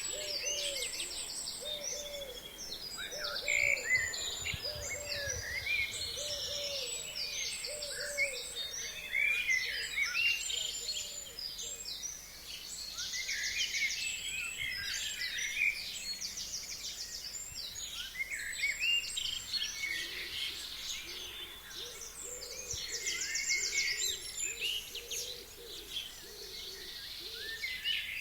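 A chorus of forest songbirds, many overlapping high songs and trills. Beneath them a low hooting call repeats steadily, less than a second apart, for the first six seconds, then comes back fainter later on.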